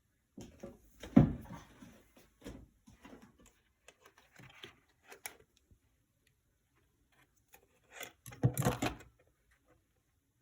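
Irregular knocks and rattles of something being handled, with a heavier thump about a second in and a cluster of knocks near the end; no beeping.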